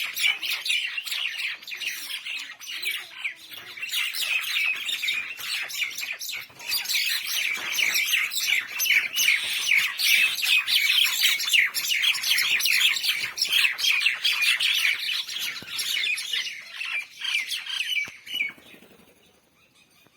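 Mynah birds calling: a dense run of rapid, overlapping chattering notes that fades out near the end.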